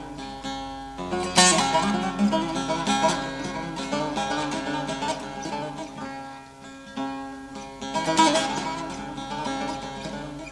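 Instrumental Turkish folk music on a plucked string instrument, with quick strummed and picked notes and several sharp attacks before the singing begins.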